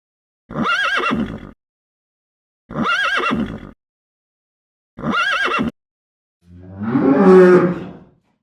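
A horse whinnying: the same short call three times, about two seconds apart, each with a wavering pitch. Near the end comes one longer, lower call of a different kind.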